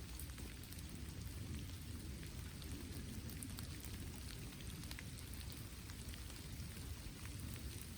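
Steady rain falling, with scattered small ticks of drops over a continuous low rumble.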